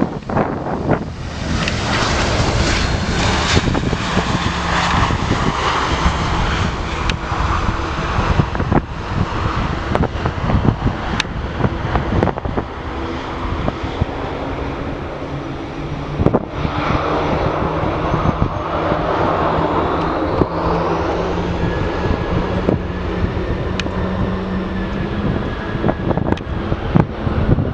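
Jet airliner engines running loudly as the aircraft passes, with wind buffeting the microphone. A higher whine rises about twenty seconds in.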